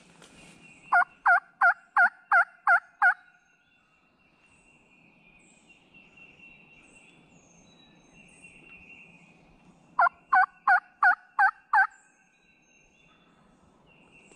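Two series of loud turkey yelps, about seven and then six evenly spaced two-note yelps at roughly three a second, with a pause of several seconds between the series.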